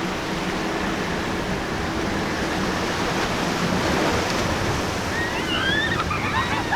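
Waves breaking and surf rushing in rough water: a steady, noisy wash that swells about four seconds in. Brief squiggly high calls come in near the end.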